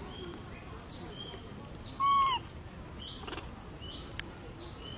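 Birds calling over and over in short high chirps that drop in pitch and then hold, about one a second. About two seconds in comes a single louder, clear call that rises and falls and lasts under half a second.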